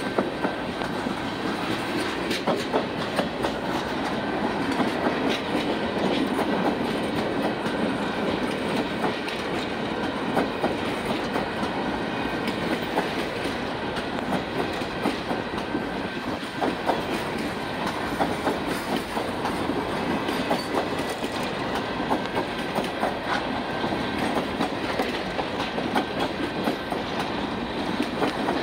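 Freight cars of a long manifest train rolling past close by: a steady sound of steel wheels on rail with frequent sharp clicks as the wheels cross rail joints.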